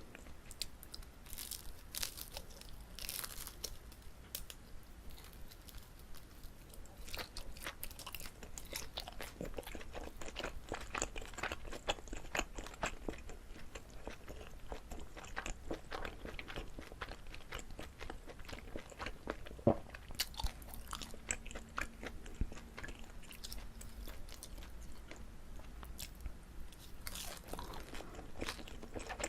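Close-miked chewing and biting of a chewy Korean rice cake filled with gondre greens: a constant, irregular run of small mouth clicks and moist crackles.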